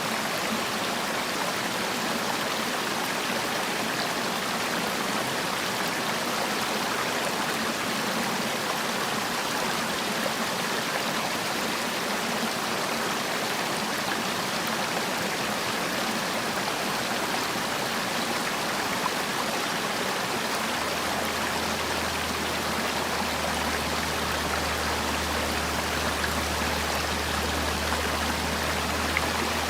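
Mountain valley stream rushing and splashing over rocks in a steady, even wash of water noise. A low steady hum joins about two-thirds of the way through.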